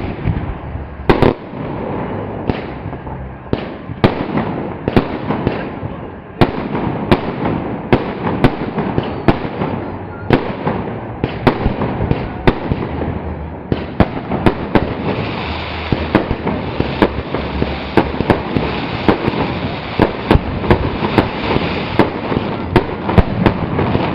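Fireworks salute: aerial shells bursting one after another in sharp bangs. About halfway through the bursts come faster and pile into a dense, continuous barrage.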